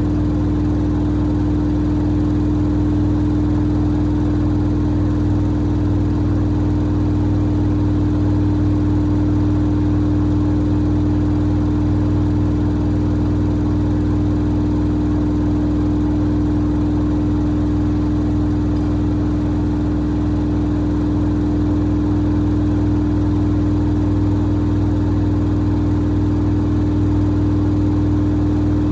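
Samsung WD70T4047CE washer-dryer running through its cycle: a steady, even machine hum with a strong constant whine over a low rumble.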